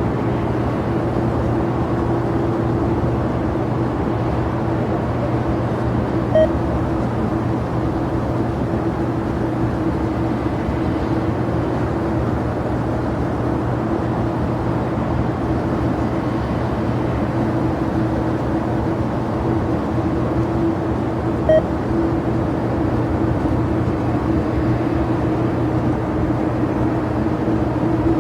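Steady drone of jet aircraft engines at an airport, with a low, even hum that holds unchanged throughout. Two short beeps sound, one about six seconds in and another some fifteen seconds later.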